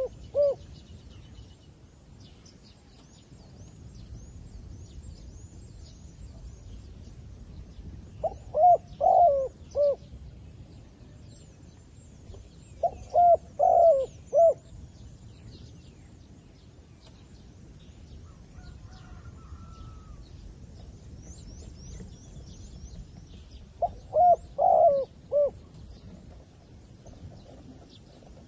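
Zebra dove cooing: three phrases of quick, staccato notes, each lasting about a second and a half, spaced several seconds apart. This is the caged decoy calling to draw wild doves down. Small birds chirp faintly in between.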